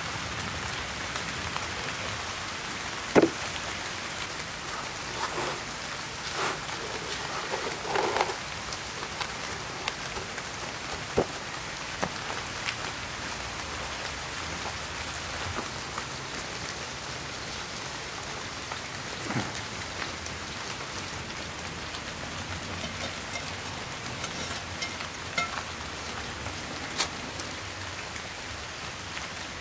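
Steady rain falling, an even hiss of drops, with a few sharp clicks and knocks on top, the loudest about three seconds in and a small cluster a few seconds later.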